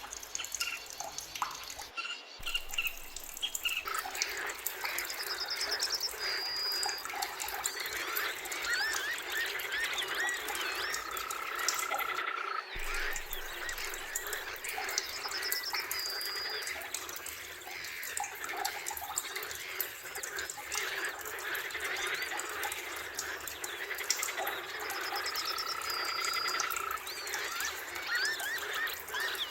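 A dense chorus of forest birds chirping, whistling and trilling together. A long steady whistle comes about ten seconds in and again near the end, and a high trill recurs about every ten seconds. The sound cuts out for a split second about two seconds in and again about twelve seconds in.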